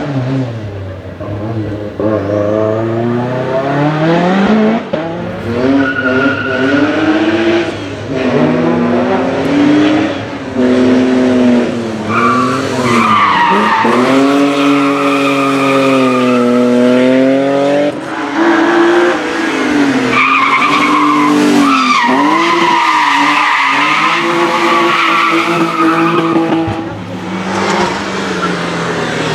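Race car engine accelerating hard and lifting again and again as it weaves through a slalom, its pitch rising and dipping with each shift and corner. Tyres squeal through the turns, loudest in the middle and latter part.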